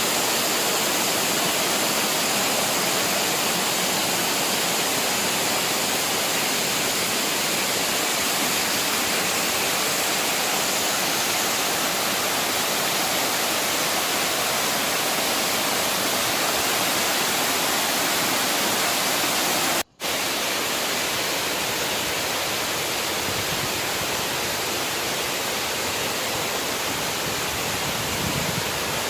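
Waterfall, falling water rushing loudly and steadily, broken once by a split-second gap about two-thirds of the way through.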